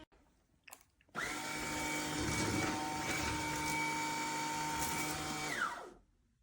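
Tineco Pure ONE S11 cordless stick vacuum switched on after a couple of clicks about a second in. It runs steadily with a high whine for about four and a half seconds, then is switched off, its whine falling as the motor spins down.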